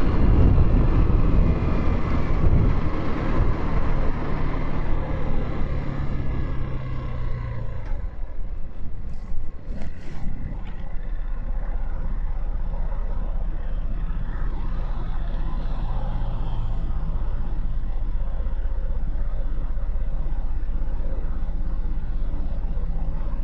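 Motorcycle engine running with wind rushing past as the bike slows, then idling steadily from about a third of the way in, with a few brief clicks soon after it settles.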